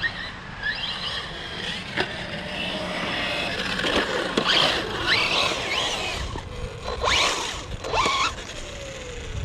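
Electric RC car being driven hard: its motor whine rises again and again as it accelerates, with tyre squeals and a few sharp knocks. The loudest moment comes about seven to eight seconds in.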